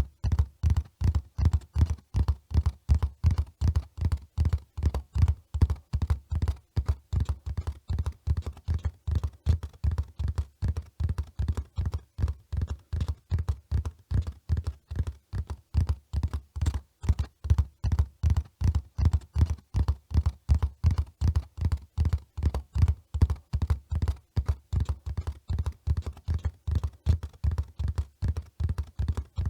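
Hoofbeats of a running horse: a steady, fast rhythm of dull, deep thuds that keeps an even pace throughout.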